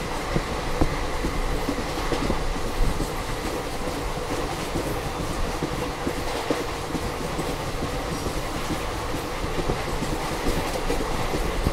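Passenger coach of an express train running at speed, heard from inside: a steady rumble of wheels on the rails with scattered clicks as the wheels cross rail joints.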